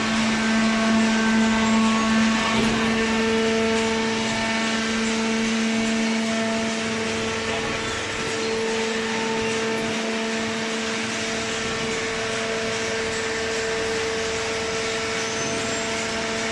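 A machine running steadily: a constant hum with a fainter higher tone over an even hiss.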